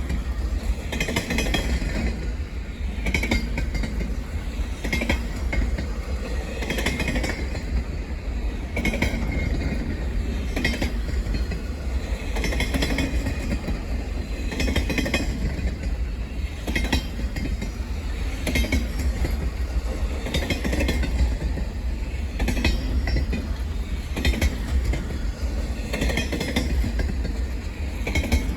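Train rolling past, its wheels clicking over the rail joints in a steady clickety-clack about once a second, often in pairs, over a constant low rumble.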